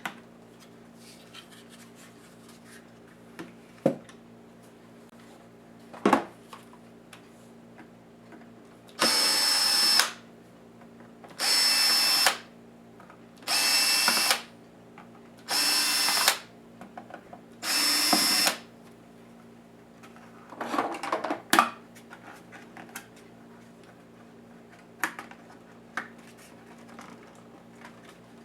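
Small electric screwdriver whirring in five short runs of about a second each, a couple of seconds apart, backing out the screws of a Lenovo IdeaPad S10-3T laptop's case. Scattered clicks and knocks of handling come before and after the runs.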